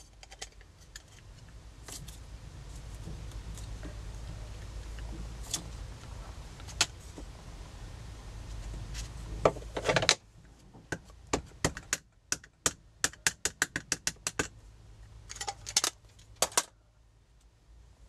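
A steady low hum for about ten seconds, then a quick run of small clicks and rattles, like small tools or objects handled on a craft table.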